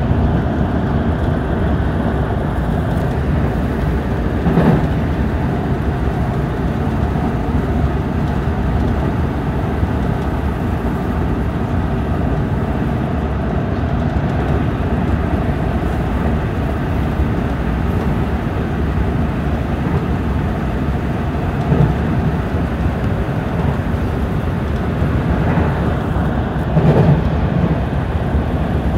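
JR Central 313 series electric multiple unit running at speed, heard from inside the leading cab car: a steady rumble of wheels on rail, with a few brief louder knocks about five seconds in, about twenty-two seconds in and near the end.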